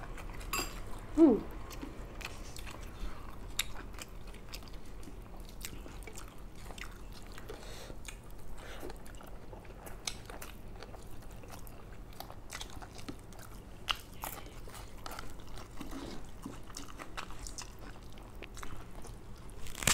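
Close-up chewing and crunching of a mouthful of mixed fried rice with many small mouth clicks, the carrots in it nearly raw and crunchy. A short voiced hum about a second in.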